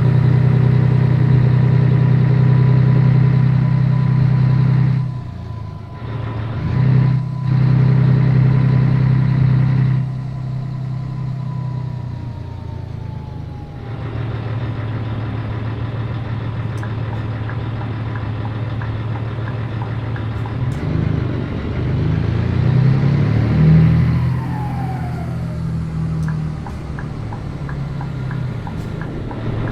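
Scania 113 truck's 11-litre six-cylinder diesel engine running steadily, with two brief dips in its sound about five and seven seconds in. After those it runs quieter, and a falling tone comes near the middle of the second half.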